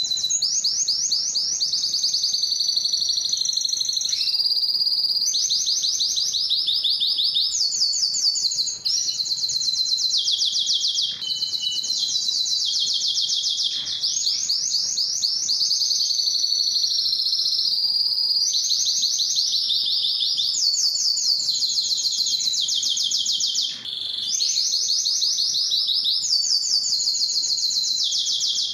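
Male Spanish timbrado canary singing continuously in fast rolling trills of rapidly repeated high notes. It switches to a new phrase every second or two, with a few brief breaks.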